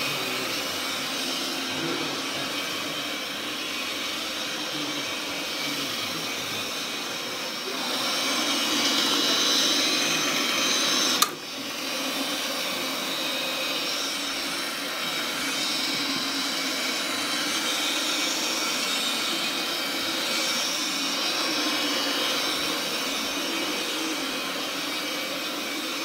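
Carpet agitation machine running steadily, whirring as it scrubs cleaning solution and enzyme pre-spray into the carpet pile. It grows louder for a few seconds in the middle, with a single sharp click about eleven seconds in.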